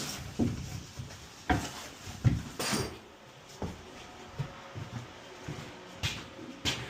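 Irregular knocks, clicks and short scrapes of hands-on work, objects being handled and set down, with a few sharper knocks scattered through.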